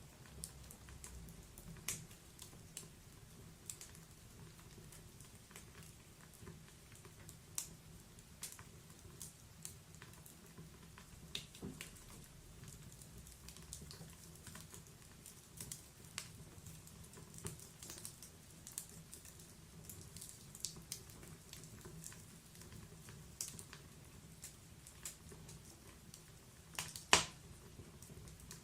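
Log fire crackling: irregular sharp pops and snaps of burning wood over a faint low hiss, with one louder pop near the end.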